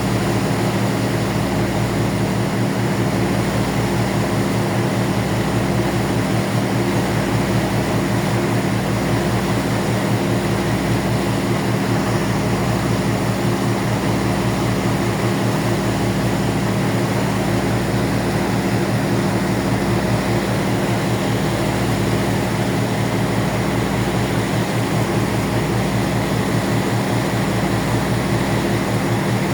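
Ferry's engines droning steadily, a constant low hum with a hiss over it, as heard on board.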